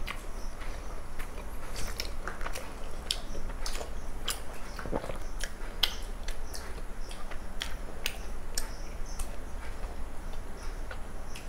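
Close-miked eating sounds: chewing and lip smacks, sharp wet clicks coming irregularly a few times a second.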